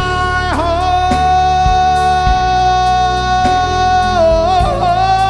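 Gospel praise song: a singer holds one long note, with a slight waver, over band accompaniment with a steady low bass and regular drum strokes. Near the end the note steps up to a new one.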